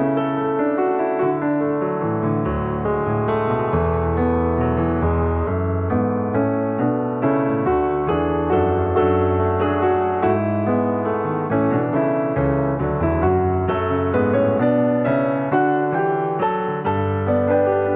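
Piano music: a continuous melody of struck notes over sustained low bass notes.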